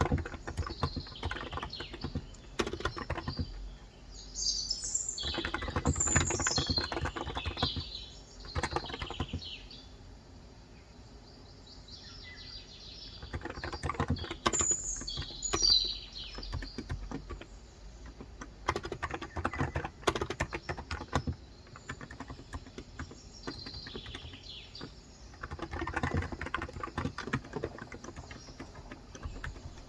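Typing in spells on a COX Endeavor electrostatic capacitive (35 g) tenkeyless keyboard, fast runs of soft keystrokes with a pause of a few seconds near the middle. Birds chirp outside several times over the typing.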